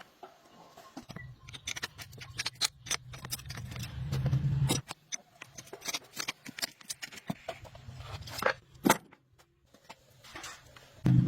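Irregular sharp clicks and light knocks, with a low steady hum under them for the first few seconds and a louder knock near the end.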